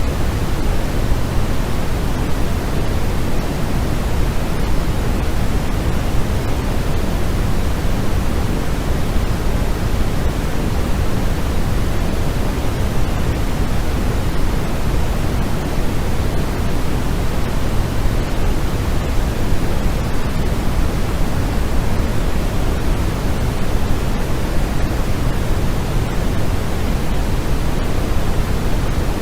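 Steady synthetic white noise for sleep: an even, unchanging hiss weighted toward the low end, deeper and softer than a flat hiss.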